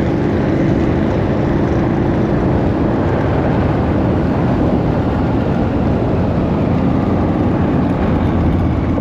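Car engine running at a steady speed under a loud, even rushing of road and wind noise; the engine's steady tone fades into the rush after a couple of seconds.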